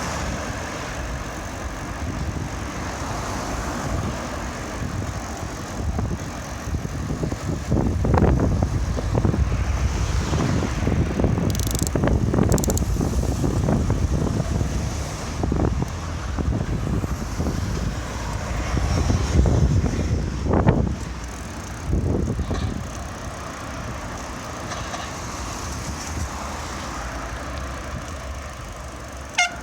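Wind rumbling and buffeting on the microphone during a bike ride, with road traffic noise; the rumble swells for several seconds in the middle, and there is a sharp click near the end.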